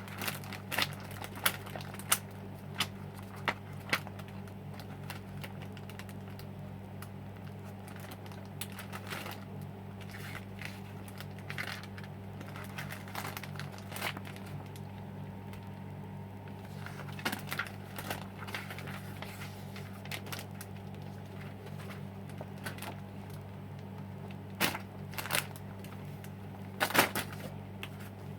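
Scattered sharp plastic clicks and brief crinkling from handling Lego Technic pieces and their packaging, busier at the start and near the end, over a steady low electrical hum.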